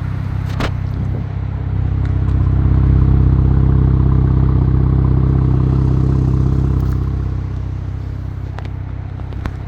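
Ram 1500 RHO's twin-turbo inline-six running through a custom aftermarket exhaust at a steady idle. It swells louder for a few seconds from about two seconds in, then settles back.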